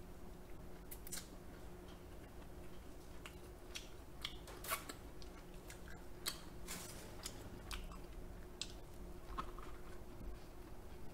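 Close-miked mouth sounds of someone chewing king crab meat: scattered short wet clicks and smacks over a faint steady hum.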